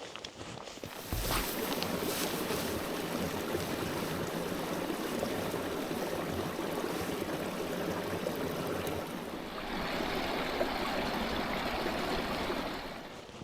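Running water of a stream, a steady rushing that starts abruptly about a second in and fades out near the end.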